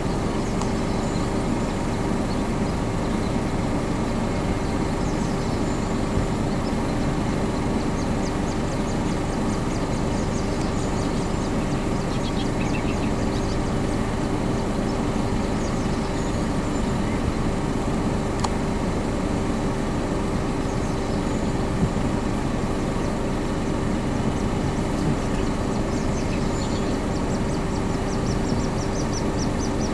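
Steady low rumble with a constant hum underneath, and twice a faint run of quick, high, thin peeps.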